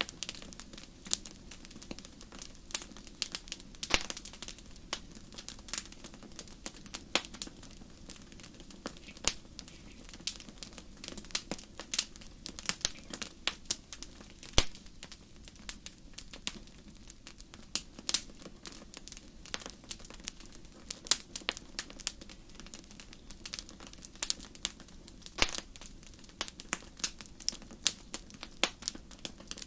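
Campfire crackling: irregular sharp pops and snaps, some much louder than others, over a low steady rumble.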